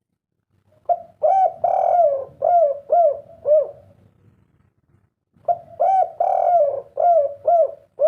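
Spotted dove (tekukur/derkuku) cooing: two song phrases about four seconds apart. Each phrase is two short coos, a longer drawn-out coo, then three short "kuk" notes, the three-note ending prized as "kuk 3".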